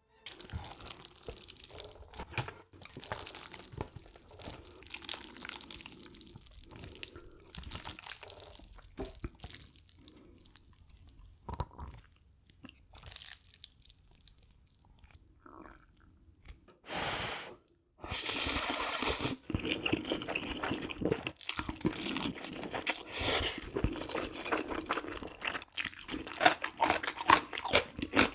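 Close-miked eating sounds: wet noises of sauced instant noodles being handled and eaten, and crunchy bites and chewing. The crunching gets denser and louder in the second half.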